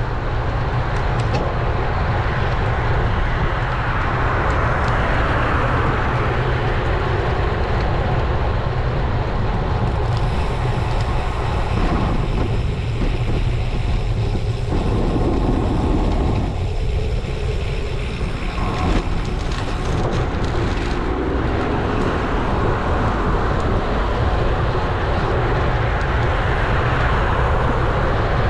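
Wind rushing over the action camera's microphone on a moving road bike, a steady loud rumble with road and traffic noise mixed in. The hiss thins out for a few seconds midway.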